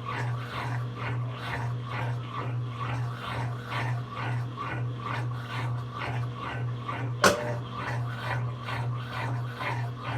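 Brastemp BWK17 17 kg washing machine mid-cycle: a steady motor hum under rhythmic swishing of water and clothes, about three strokes a second, as the load is agitated. One sharp click sounds about seven seconds in.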